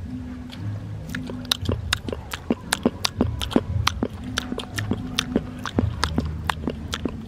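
Children chewing and eating grilled banana, with many sharp, irregular mouth clicks and lip smacks, thickest through the middle. Low background music runs underneath.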